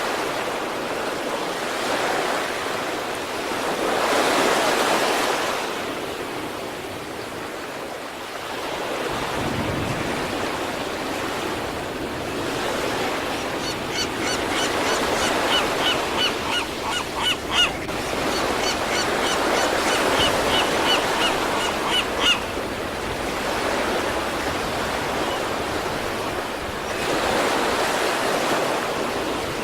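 Sea waves breaking and washing on a shore, swelling and fading every several seconds. Midway, a bird gives a run of short, high calls lasting about nine seconds.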